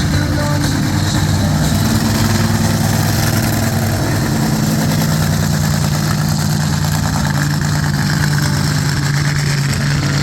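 Methanol-fuelled show truck engines of about 2,000 horsepower running steadily at low revs, a deep even drone.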